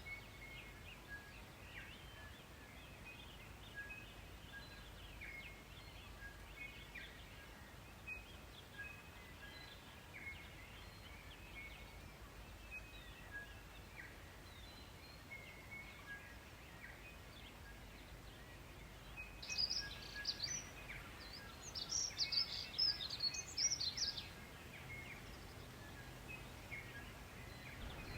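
Several songbirds singing, short repeated chirps and phrases throughout, with a louder run of rapid high notes from one bird for about five seconds, starting about twenty seconds in.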